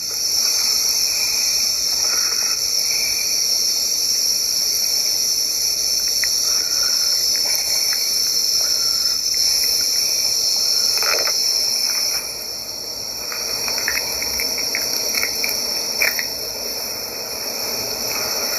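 A steady, high-pitched chorus of insects buzzing, with a few faint clicks. It eases a little about twelve seconds in.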